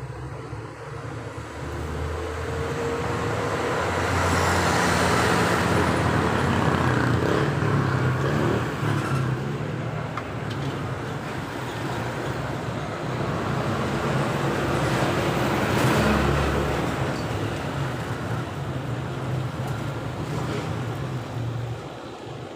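Road traffic noise: motor vehicles passing, swelling louder about four to eight seconds in and again around sixteen seconds, over a steady low rumble.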